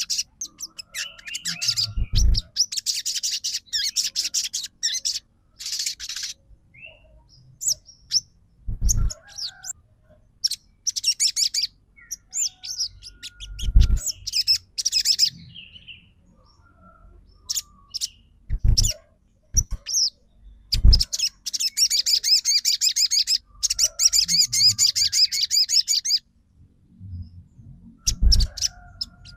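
Sogon songbird singing: rapid, high-pitched chattering trills in bursts of a few seconds with short pauses, including one long dense trill. Short low thumps come in between the phrases about half a dozen times.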